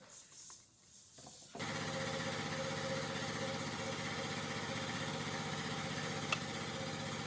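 A small electric motor starts abruptly, runs at a steady buzzing pitch for about six seconds, and then cuts off abruptly, with a sharp click near the end.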